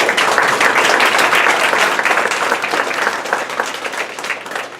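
Audience applauding, dense clapping from many hands that swells in as a song ends and thins out near the end.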